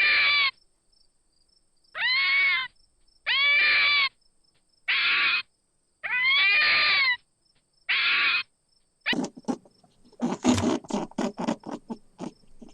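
An animal calling six times at roughly one-second intervals, each call a short pitched cry, some rising and then falling in pitch. From about nine seconds in, a different sound follows: a fast, irregular run of short clicking or chattering noises.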